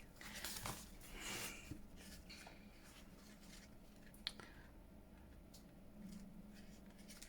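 Faint rustling and rubbing of paper as a cut paper piece is pressed down onto a journal page, with one small sharp click about four seconds in.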